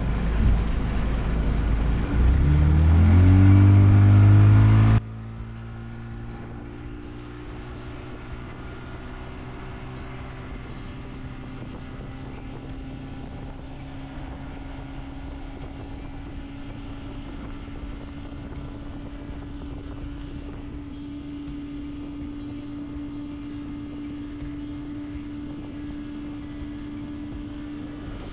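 Motorboat engine speeding up, its pitch rising under loud wind and water rush on the microphone, then after an abrupt change about five seconds in, running at a steady speed as an even, quieter drone.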